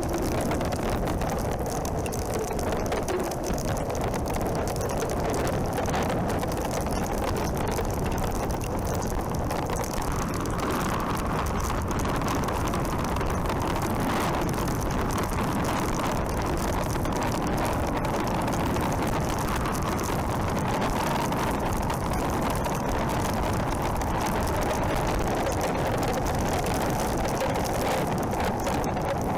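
Wind rushing over a helmet camera's microphone while riding a motorcycle, with the bike's engine and road noise underneath. The sound stays at a steady level throughout.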